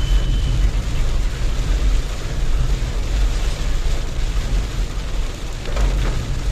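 Steady road noise of a moving vehicle in heavy rain: a constant low rumble under an even hiss of rain and tyres on wet road.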